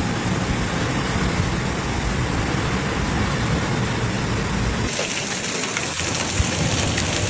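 Heavy rain pouring down in a steady hiss, with a deep rumble under it for about the first five seconds. The sound then turns to a thinner, brighter rain hiss.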